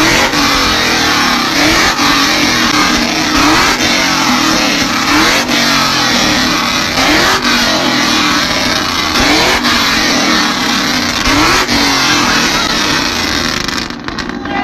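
Pickup truck engine revved loud and repeatedly, its pitch climbing in a new rise about every two seconds. The sound changes abruptly near the end.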